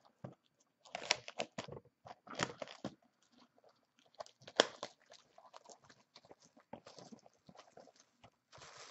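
Trading-card packaging being handled and opened: crinkling and tearing wrap in several short bursts, with one sharp click about halfway through and lighter crackling after.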